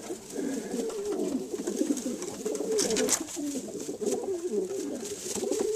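Several racing homing pigeon cocks cooing together in a small loft, their low, wavering coos overlapping, with a brief scratchy noise about three seconds in.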